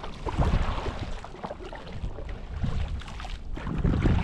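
Wind buffeting the microphone in irregular low gusts, the strongest near the end, with a few light knocks from around a kayak.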